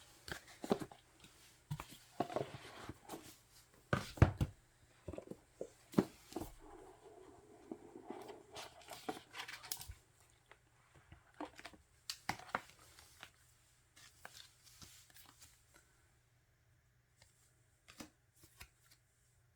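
Paper and card handled by hand as K-pop album inclusions are sorted: rustling, crinkling and short taps, busy for the first half and sparser later, with a few taps near the end.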